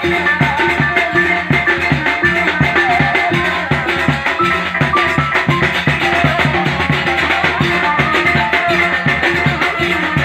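Live band music with a steady drum beat under melodic instruments.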